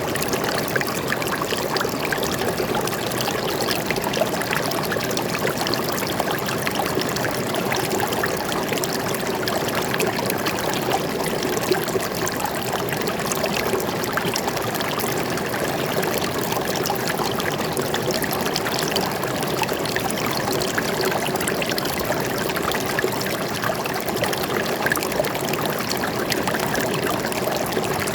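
Water flowing steadily over rocks in a forest stream, a continuous splashing and burbling rush that does not change.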